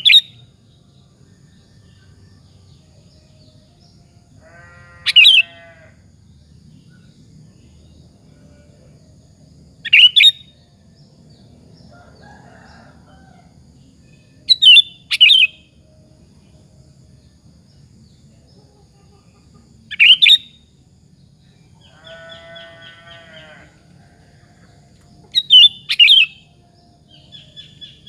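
Sooty-headed bulbul (kutilang) singing short, loud whistled phrases about every five seconds, six in all, each a quick upward sweep. Twice, once together with the second phrase and once about three quarters of the way through, a lower, harsh buzzy call lasts a second or more, over a faint low hum.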